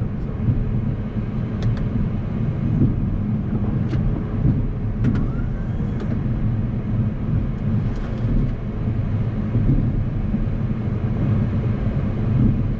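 Boeing 737 MAX 8 flight deck noise: a steady low rumble of engines and airflow, with a few faint clicks.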